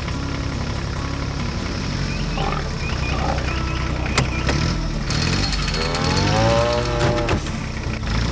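Tractor engine running steadily in a farm cartoon's sound track. About six seconds in, a loud, drawn-out call rises and then falls in pitch over it.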